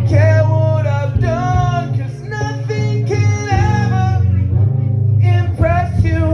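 Live song: a male voice singing a melody in several phrases over a steady, loud looped bass line and guitar.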